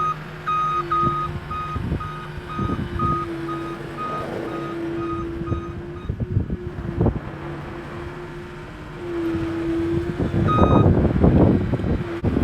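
A machine's reversing alarm beeping rapidly, about two to three beeps a second, over its running engine. The beeping stops about five seconds in and starts again near the end, when loud clattering joins it.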